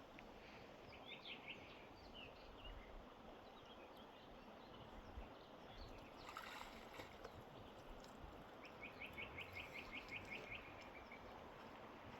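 Faint steady rush of river water with a small bird calling: a few chirps about a second in, then near the end a rapid run of about a dozen even, high notes, roughly five a second.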